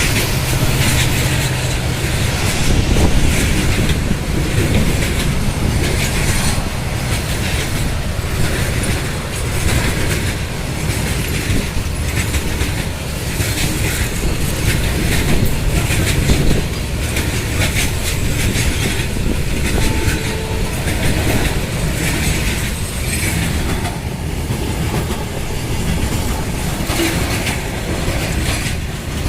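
Goods train running past at speed: a continuous rumble of steel wheels on the rails, with a steady clickety-clack as the wagon wheels cross the rail joints.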